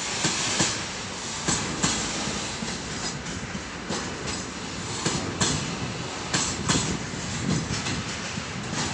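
Freight train wagons rolling past, wheels clattering in irregular sharp knocks over rail joints above a steady rumble.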